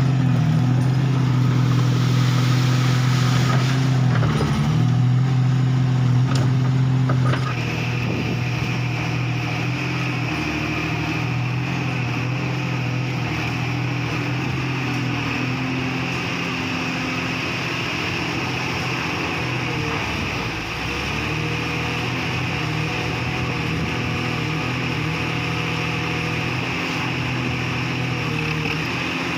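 Komatsu PC200-5 excavator's diesel engine running steadily. It is a little louder for the first seven seconds, then settles slightly lower as a steady high whine joins it.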